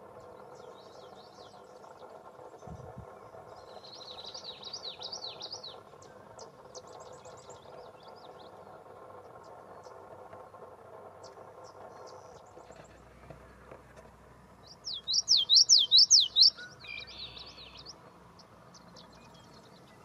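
Common yellowthroat singing its song of quick, repeated high phrases, twice: faint about four seconds in, then loud and close for a second and a half about fifteen seconds in. A steady low hum and a few faint chips from other birds lie under it.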